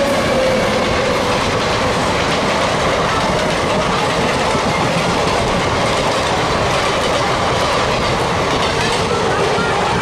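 Express coaches rushing past at speed on the adjacent track, heard from a train door close by: a steady, loud rush of wheels on rail with a clickety-clack over the rail joints.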